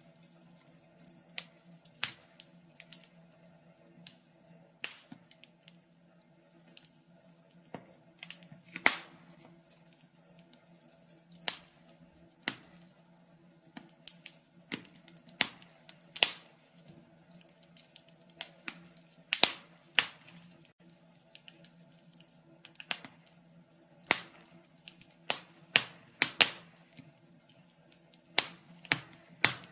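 Wood fire crackling, with irregular sharp pops and snaps from the burning logs, some loud and many faint, over a faint steady low hum.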